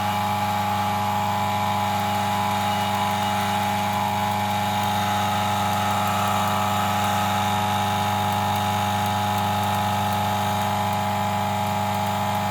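DF54 flat-burr coffee grinder's motor running steadily with a strong low hum and a higher whine above it.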